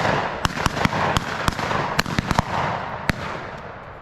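A ragged volley of shotgun fire from several shooters at a flushed pheasant: about ten sharp shots in quick, uneven succession over three seconds. The shots roll and echo, then die away near the end.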